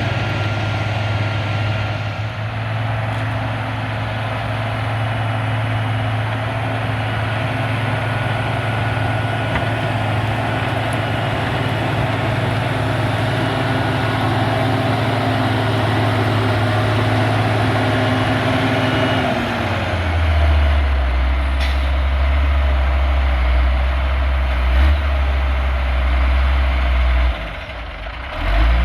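Heavy diesel engine of road-building machinery running steadily under load. About two-thirds of the way in its note drops to a lower, deeper hum, then fades briefly near the end with a short knock.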